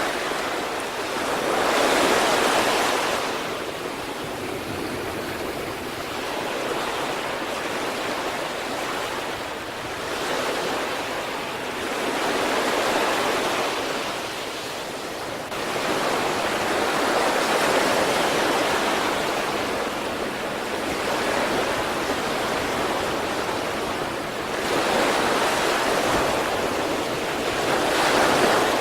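Sea waves breaking in steady surf, the hiss swelling and easing as each wave comes in, with louder surges about every few seconds.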